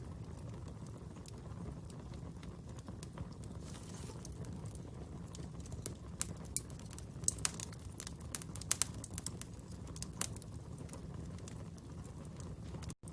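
Wood fire burning with a steady low rumble and sharp crackles and pops, which come thickest in the middle. The sound drops out for a split second near the end.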